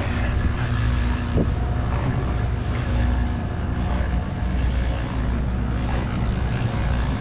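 An engine running steadily at a constant speed: a low, even drone that holds one pitch.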